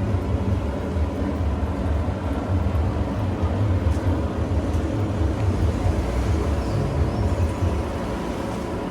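Steady low vehicle rumble, the engine and road noise of a car.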